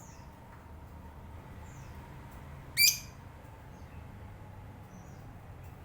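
Lovebird calling: one loud, shrill chirp about three seconds in, among faint, short, high chirps repeating about once a second.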